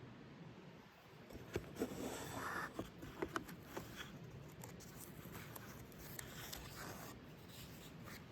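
Faint scraping and rubbing with a few sharp light clicks, busiest about two seconds in, then sparse soft ticks.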